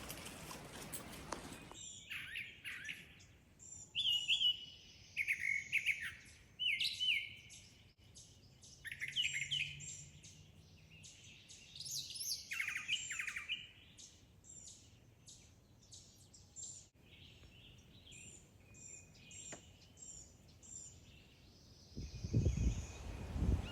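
A songbird singing a string of short, varied phrases with brief pauses between them. Later comes a quicker run of short, thin, high notes. A low rumble comes in near the end.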